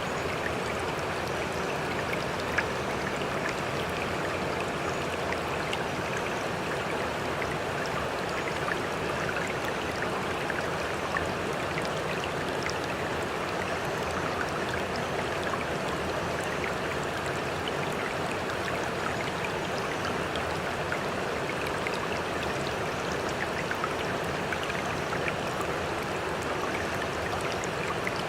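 Seawater washing steadily, an unbroken rush of moving water with fine splashing and dripping ticks.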